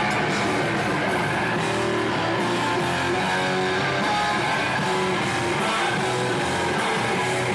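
Live metalcore band playing at full volume, with loud distorted electric guitars strumming chords over bass and drums.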